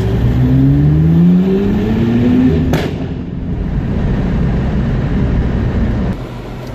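Porsche 991 Turbo's twin-turbo flat-six through a SOUL Performance exhaust, its pitch rising steadily under acceleration for nearly three seconds, then a single sharp crack. After the crack it runs on lower and rougher, dropping in level near the end.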